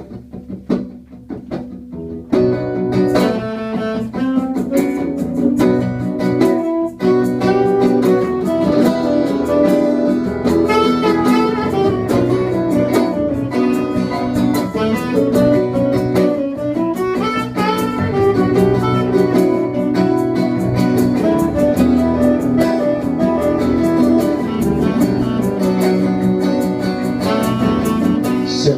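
Live band's instrumental introduction to a song in B minor: strummed guitars start alone for about two seconds, then the full band comes in, with a lead instrument playing a melody over the chords.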